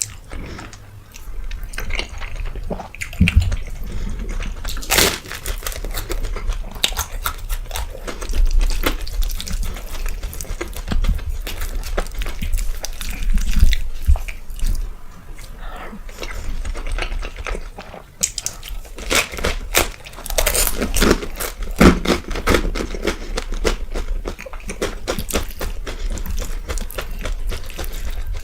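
Close-miked eating sounds: chewing and wet mouth smacks, many short clicks and squelches, with a busier stretch about two thirds of the way in.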